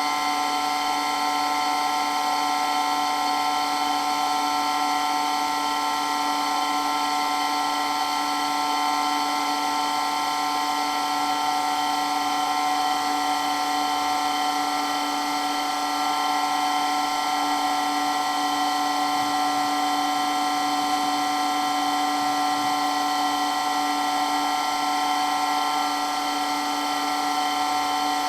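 Water pump running steadily, a constant high-pitched motor whine made of several steady tones that does not change.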